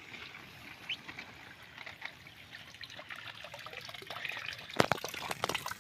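Water trickling and dripping, with a few sharp splashes or knocks about five seconds in.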